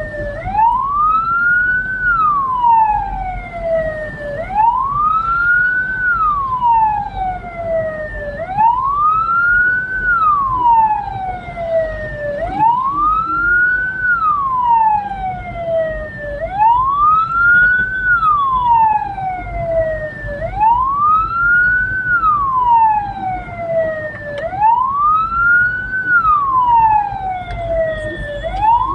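Hearse's electronic wail siren, rising quickly and falling slowly in a steady cycle about every four seconds, over a low rumble of engine and road noise.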